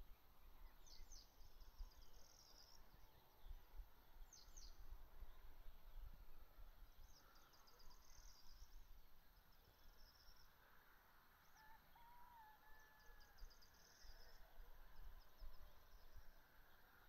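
Faint outdoor birdsong: short high trills come and go every few seconds, with a pair of lower whistled notes about two-thirds of the way through, over a faint low rumble.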